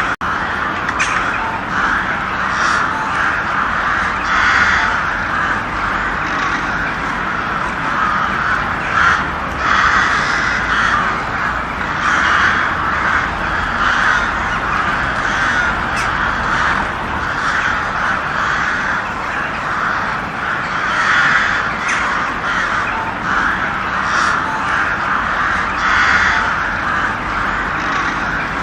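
Many crows cawing at once, harsh overlapping calls that go on without a break.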